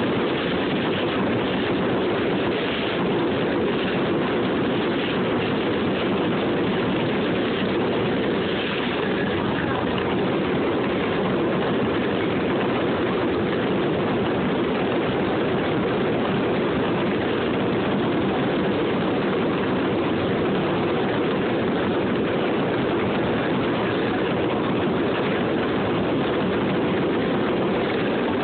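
Ground fountain fireworks spraying sparks, a steady, dense hissing rush with no separate bangs.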